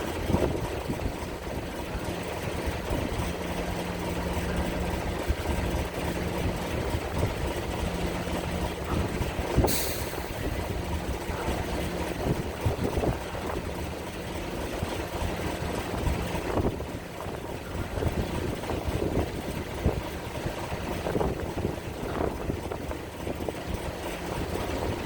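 Heavy engine running steadily with a low hum, amid scattered metal clanks and knocks and one sharp click about ten seconds in.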